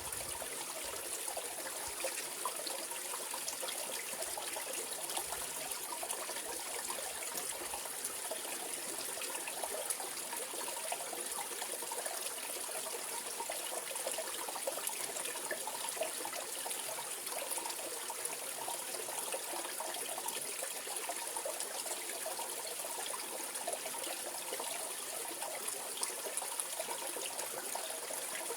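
Mountain valley stream flowing, a steady, unbroken babble of trickling and splashing water.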